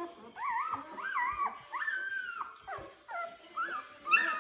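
Week-old puppies whimpering and squealing: a string of short, high cries that rise and fall, some overlapping. A sharp click near the end.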